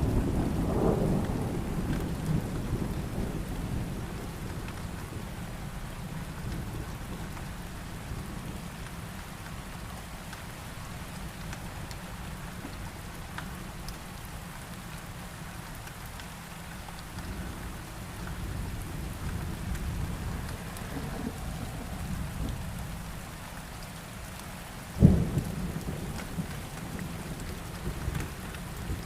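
Rain falling steadily through a thunderstorm. A rumble of thunder fades over the first few seconds, and a sharp, close thunderclap comes near the end, followed by a couple of smaller cracks.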